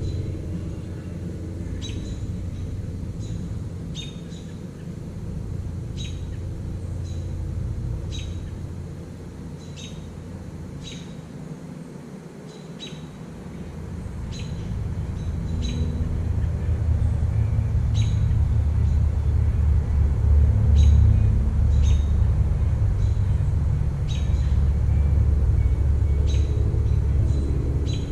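A bird calling with short, high chirps roughly every second or two, over a low rumble that dips briefly and then grows louder in the second half.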